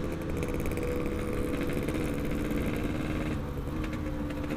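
Yamaha RX-King's two-stroke single-cylinder engine running at a steady engine speed while riding, with a low road and wind rumble beneath.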